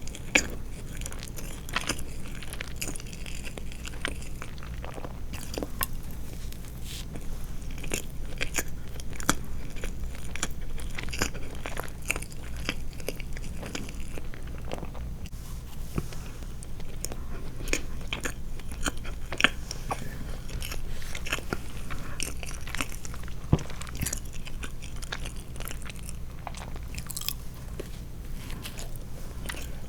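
Close-miked chewing and mouth sounds of a person eating soft sweets, made up of many small irregular clicks. A steady low hum runs underneath.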